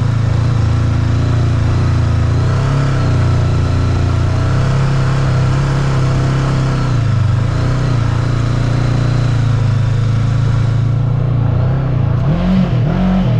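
Motorcycle engine running at a steady pitch under way. Near the end the revs rise and fall in a couple of quick swells.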